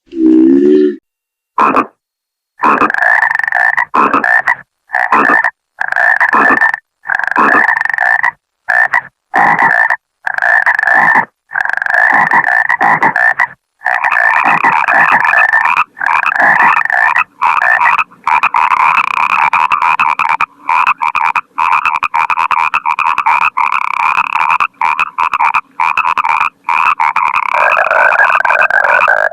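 Frogs croaking: short calls repeated about once a second at first, then running almost without a break from about halfway through.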